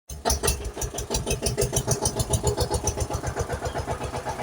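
A motor vehicle's engine starts suddenly and runs at a fast, even idle, about eight pulses a second.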